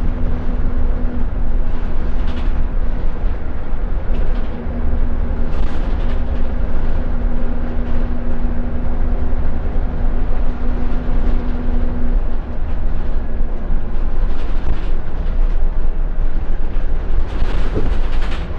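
Cabin sound of a Scania L94UB Wright Solar single-decker bus under way: a steady low rumble of engine and road, with a steady whine that fades out about twelve seconds in. Short sharp rattles come every few seconds.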